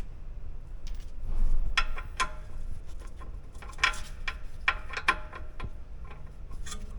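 A few sharp metal clinks with short ringing, from a 14mm socket and breaker bar being handled and fitted onto a rear brake caliper bolt.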